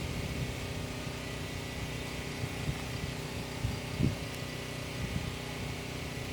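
A steady low mechanical hum with an even hiss, like a motor or fan running, with a brief soft thump about four seconds in.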